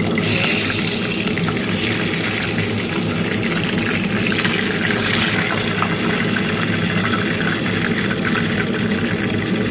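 Hot oil sizzling steadily in a frying pan, over a low steady hum.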